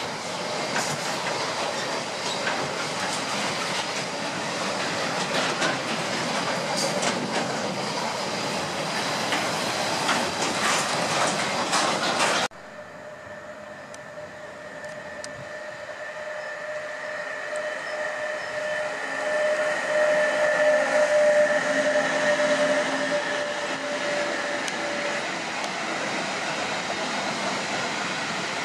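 Freight wagons rolling past at close range, a steady clatter of wheels over rail joints. About twelve seconds in the sound cuts abruptly, and a second electric freight train is heard coming closer: its noise swells with a steady high tone, then its empty car-transport wagons rumble by.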